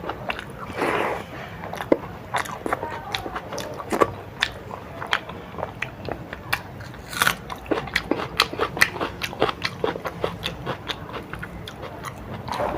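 A person chewing and biting into a meal of dal, rice, omelette, papad and raw onion. Many irregular crisp clicks and crunches, with one sharp crunch about seven seconds in.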